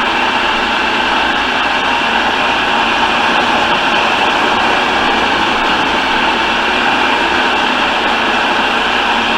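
Food processor motor running steadily, blending pie-crust dough of flour, cold butter, lard and ice water until it comes together into a ball.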